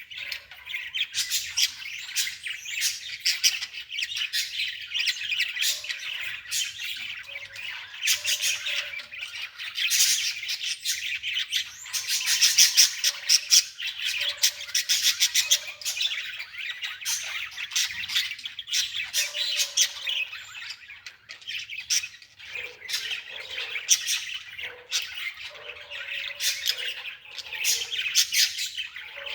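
Birds chirping and squawking continuously, many short calls overlapping with no break.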